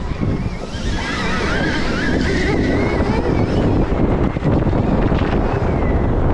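Wind rushing and buffeting on the microphone while riding a Stark Varg electric dirt bike, with the electric motor's high whine rising and falling with speed in the first half, then fading under the wind.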